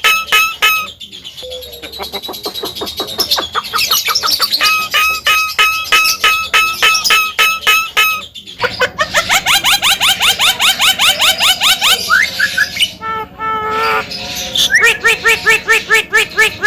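Javan myna calling in fast runs of short, repeated chirping notes, switching about halfway through to a quick series of rising notes, as in the species' varied mimicking song.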